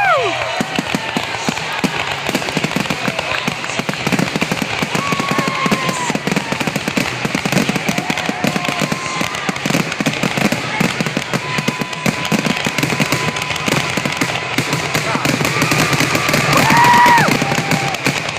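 Fireworks going off in rapid succession, a dense run of pops, crackles and bangs with music playing underneath. Pitched whistling tones sound over them at the start and again near the end.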